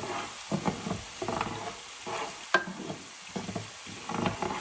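Diced green onions and garlic sizzling in warm olive oil in a frying pan while a utensil stirs and scrapes through them, with one sharp tap against the pan about two and a half seconds in.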